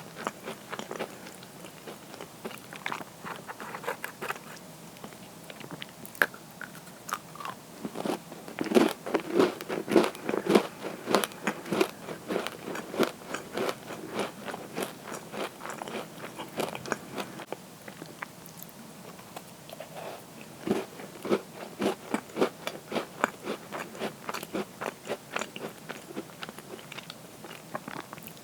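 Crunchy cookies being bitten and chewed close to the microphone: rapid crisp crunches in bursts, heaviest about a third of the way in and again past two-thirds, with quieter chewing between.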